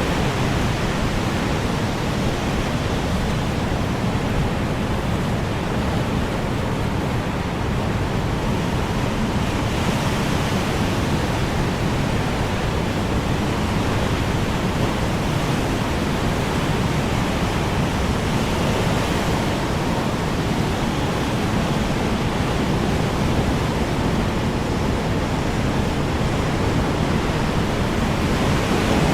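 Strong wind blowing steadily, a dense rushing noise that swells and eases only slightly.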